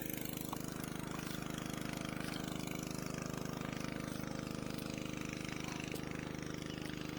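An engine idling steadily, a low even hum with a fast regular pulse, with a few faint clicks over it.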